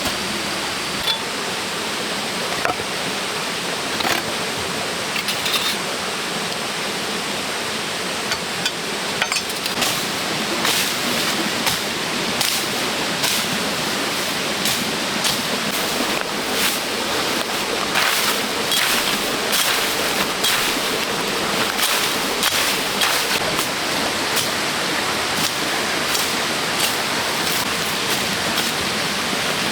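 Steady rush of running water, with sharp clicks and knocks that come thick and fast from about ten seconds in.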